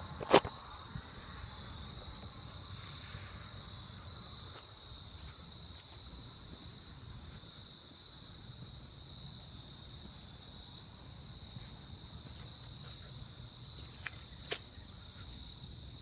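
Steady high-pitched insect trill, with one sharp knock about half a second in and a fainter click near the end.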